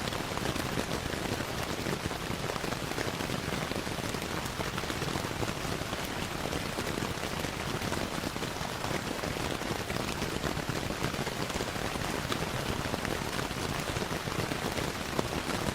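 Steady rainfall with dense, even patter, mixed with the crackle of a wood fire in a fireplace.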